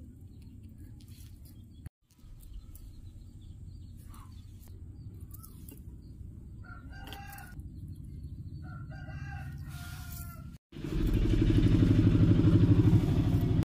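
Two short bird calls with a broken, wavering pitch over a steady low hum. About eleven seconds in, a much louder low rumbling noise starts and lasts nearly three seconds, then cuts off suddenly.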